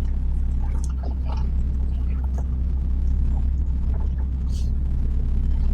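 Steady low rumble of an HGV lorry's diesel engine and road noise heard inside the cab while driving, with a few faint light rattles.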